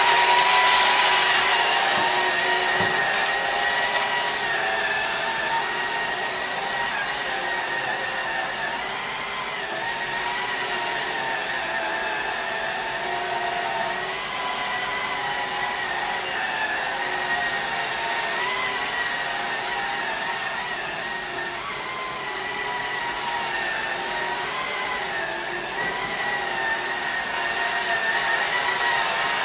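Small cordless electric sweeper (a Swivel Sweeper) running, its motor giving a steady whine that wavers slightly in pitch over a rushing of air.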